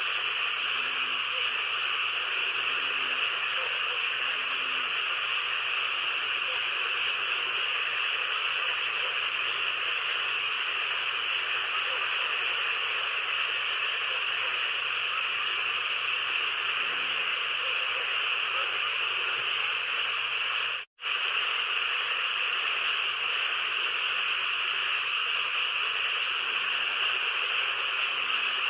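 A steady, even hiss centred high in pitch, cutting out completely for a split second about 21 seconds in.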